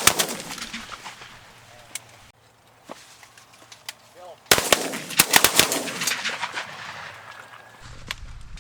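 Several hunters' shotguns firing in quick overlapping volleys at a flock of pigeons: a burst of shots at the start, a single shot about two seconds in, then a longer, denser volley of a dozen or so shots about four and a half seconds in, each shot ringing out in the open.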